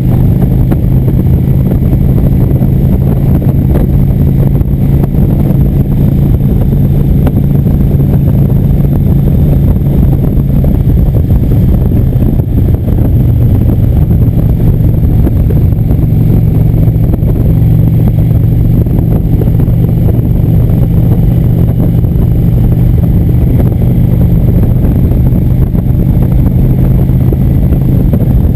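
Indian motorcycle engine running steadily at cruising speed with road and wind rumble, its pitch shifting slightly about halfway through.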